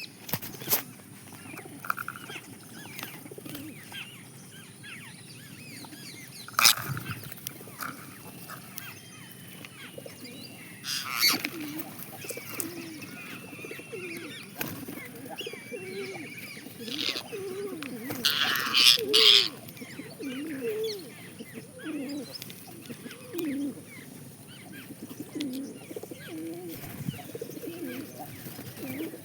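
Birds calling: short, low cooing calls repeat roughly once a second through the second half, over scattered higher chirps. Several sharp knocks and a brief loud rustling burst break in.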